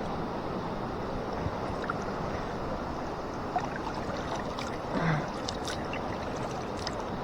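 River water rushing steadily, with a brief short sound about five seconds in.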